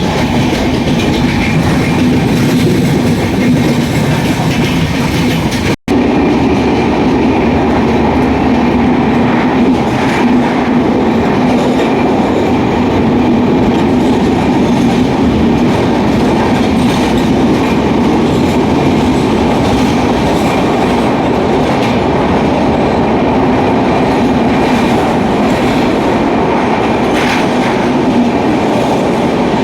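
A train running steadily, with the continuous rumble of its wheels on the rails heard from on board. The sound cuts out very briefly about six seconds in, then carries on.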